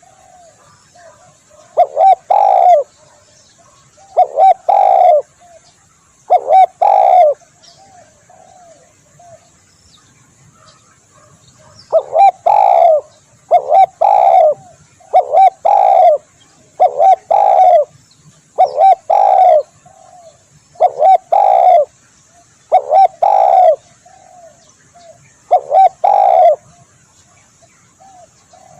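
Spotted dove (tekukur) cooing: loud phrases of a few low coos repeated about every two seconds, with softer coos between them and a pause of a few seconds about a third of the way in.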